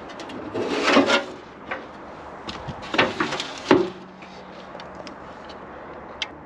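A few clunks and clatters of something being handled and opened: a cluster about a second in, then knocks around three seconds in, the loudest just before four seconds.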